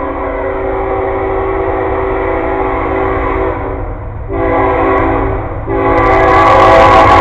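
Locomotive air horn sounding a long blast, breaking off about four seconds in for a shorter blast, then starting another long blast near the end, over the low rumble of the train.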